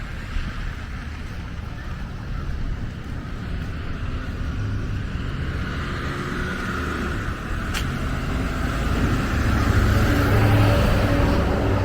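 A car driving past on the street, its engine rumble and tyre noise building up and loudest about ten seconds in.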